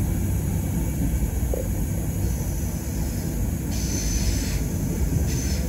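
Train running on rails: a loud, steady rumble with hiss over it, and two short patches of sharper hiss a little past the middle.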